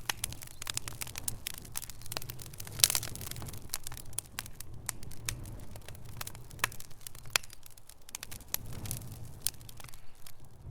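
Wood fire burning in a fireplace: irregular crackles and sharp pops over a low steady rumble, with one louder pop about three seconds in.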